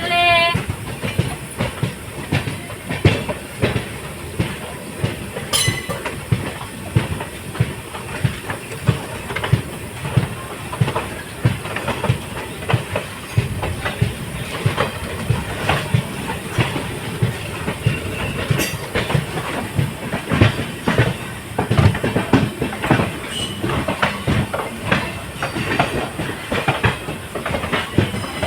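Passenger train running along the track, its wheels clacking over rail joints in a fast, irregular rhythm of clicks over a steady rumble.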